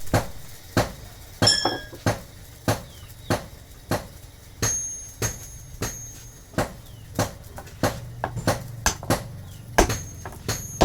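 Hammer blows on steel being straightened, about one and a half strikes a second and quickening near the end, several ringing out briefly with a high metallic tone. A steady low hum runs under the blows.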